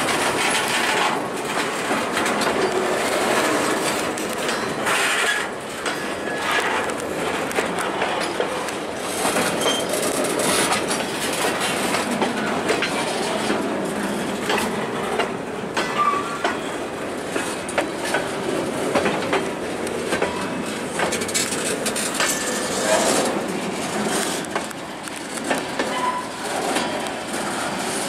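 Freight train of covered hopper cars rolling past, the steel wheels clicking and clanking irregularly over the rail joints.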